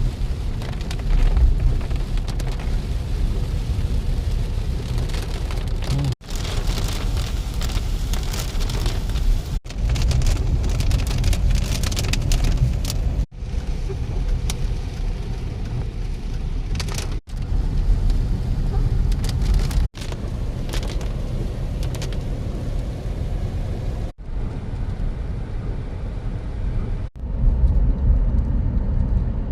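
Heavy rain pouring on a moving car, over the car's steady low road rumble. The sound is made of several short clips joined with abrupt cuts.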